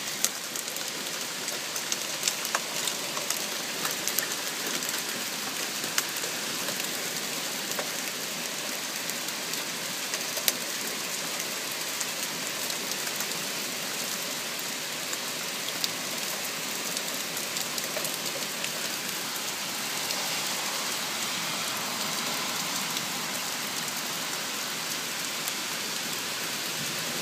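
Heavy rain falling steadily, an even hiss with occasional sharp taps.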